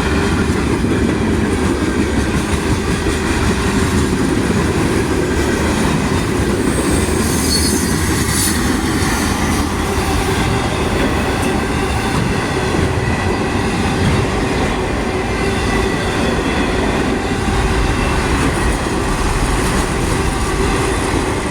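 Freight train of gondola cars rolling past close by: a steady loud rumble and clatter of steel wheels on the rails. A brief high-pitched wheel squeal comes about a third of the way through.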